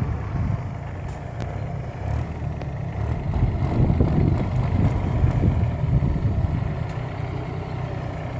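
Kubota compact tractor's diesel engine running steadily, with a low drone that swells and eases a little. A run of short, high chirps sounds about two to five seconds in.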